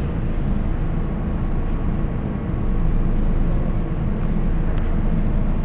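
Budd-built R32 subway train moving through the station, a loud steady low rumble with a faint hum above it.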